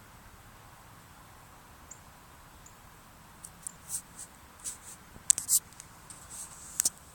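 Hydraulic system on a Damon motorhome clicking: quiet at first, then about halfway in an irregular run of short, sharp clicks starts, with the loudest clicks near the end.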